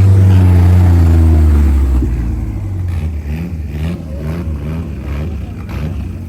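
A car engine at a drag race, loud, with its pitch falling over the first two seconds, then a quick string of short rising revs.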